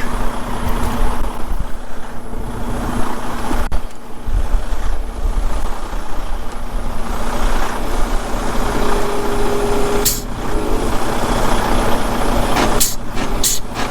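Western Star truck's diesel engine idling, with a short hum about two-thirds through and several sharp bursts of air near the end.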